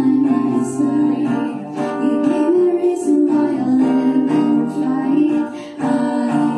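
A voice singing a song live with acoustic guitar accompaniment, holding long notes over struck chords.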